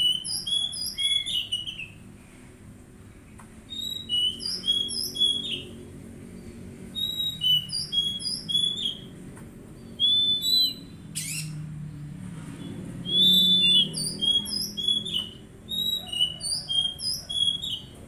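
Oriental magpie-robin song: bouts of clear, whistled notes lasting one to two seconds, repeated every few seconds over a faint low hum.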